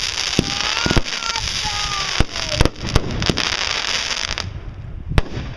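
Fireworks going off: dense crackling with a string of sharp bangs, the crackle stopping about four and a half seconds in, then one more bang near the end.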